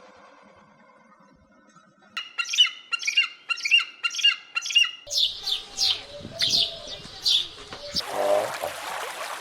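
Bird calls. After a faint start comes a run of about six evenly spaced calls, roughly two a second, then a series of higher, sharper falling calls. A steady hiss starts near the end.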